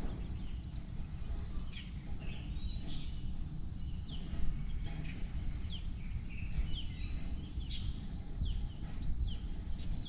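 Forest birds calling: a rising whistled note twice, and short falling notes repeated about once a second, over a steady low rumble.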